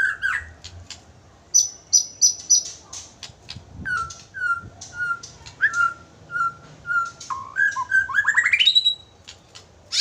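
Nias hill myna singing: a varied string of loud whistles and chirps. A row of short, even notes comes in the middle, then a fast rising run ends in a held whistle.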